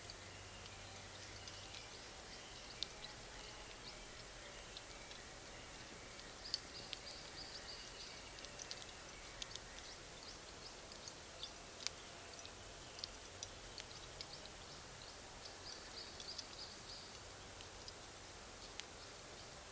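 Bonfire of wood and Iwate cut charcoal crackling over a steady low hiss, with irregular sharp pops from the charcoal, a few of them louder, around six and twelve seconds in.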